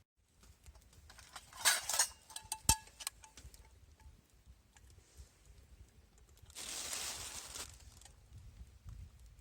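Light clinks and knocks of metal camp cookware being handled, some with a short metallic ring. There is a sharp knock about three seconds in and a brief rushing hiss about seven seconds in.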